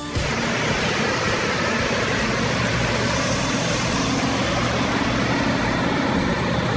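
Heavy truck running steadily: a low engine hum under a constant, dense rush of noise.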